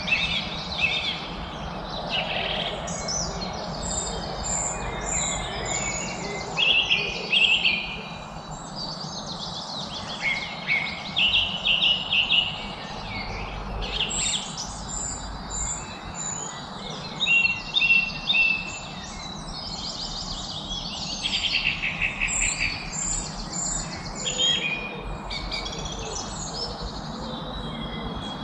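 Several songbirds singing and chirping at once: overlapping trills, rapid chirp series and short high notes, over a steady background hum.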